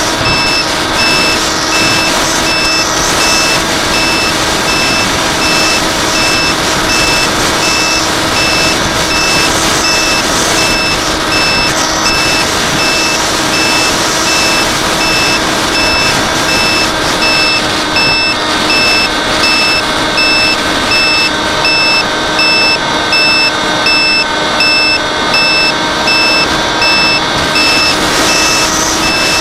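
An electronic beep repeating at an even pace over a steady, multi-toned mechanical hum and continuous noise.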